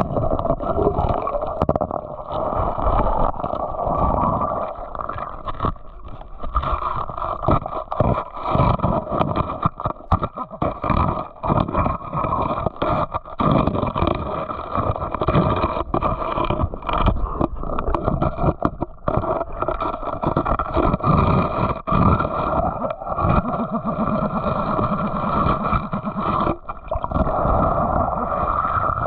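Creek water sloshing and gurgling, muffled, with irregular scraping and knocking throughout.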